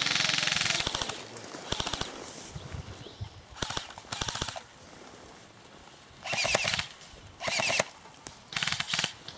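Airsoft guns firing in rapid full-auto bursts, a clatter of shots repeated several times with a quieter lull around the middle.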